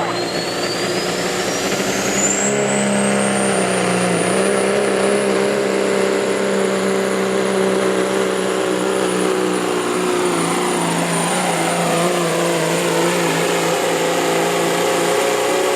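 A pulling vehicle's engine runs hard at full power for a whole pull run. A high-pitched whine rises over the first couple of seconds and then holds steady over the engine's drone.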